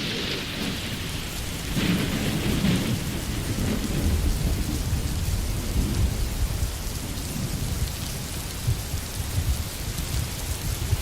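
Steady rain falling in a forest, with a low rumble running under it and brief louder surges of rain near the start and about two seconds in.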